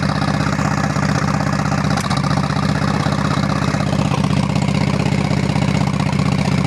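Motorcycle engine idling steadily, revs raised a little because it stalls otherwise, with one sharp sneeze about two seconds in. The sneeze is an occasional hiccup heard from both the muffler and the engine, whose cause the owner does not know.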